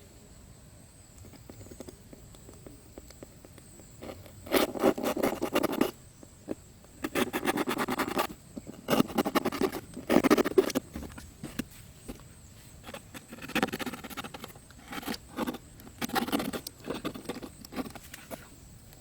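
Scraping and rattling in five short bursts of rapid clicks, each lasting about a second.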